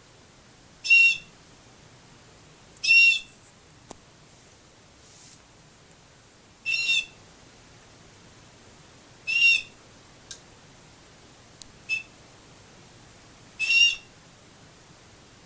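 Domestic canary giving five short, loud call notes at uneven intervals, with a few faint clicks between them.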